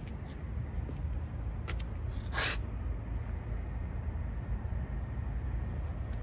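Supercharged V8 engine idling with a steady low rumble. A short hiss comes about two and a half seconds in.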